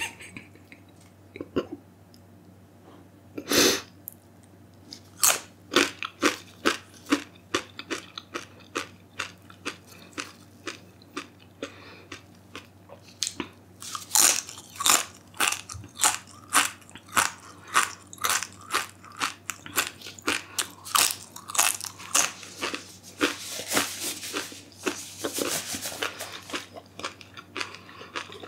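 Close-miked biting and crunchy chewing of a Paqui One Chip Challenge tortilla chip: one loud bite about three and a half seconds in, then steady crunching chews about two a second, getting denser near the end.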